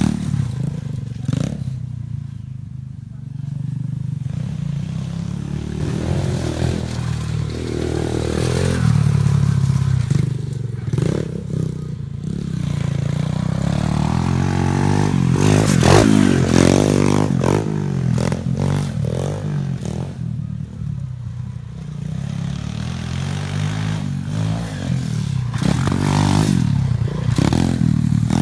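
A 125cc pit bike's single-cylinder four-stroke engine revving up and down over and over, its pitch rising and falling as the throttle opens and closes, with some clatter.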